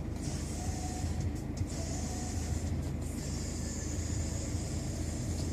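Steady low rumble with a steady hiss above it, like the running noise of a vehicle.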